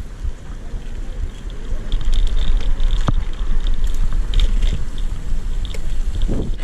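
Strong headwind buffeting the microphone of a bicycle rider's action camera while riding, a heavy low rumble that grows louder about two seconds in.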